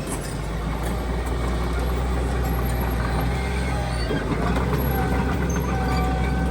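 Heavy diesel engine of earthmoving machinery running steadily with a low rumble; a higher, steady whine joins about four seconds in.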